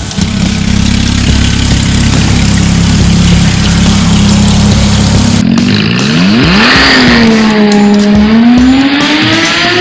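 Porsche 981 Boxster S flat-six engine through an iPE valvetronic exhaust, held at a steady, loud engine note for about five seconds. Then the note swoops up, dips, and climbs again as the engine revs and accelerates.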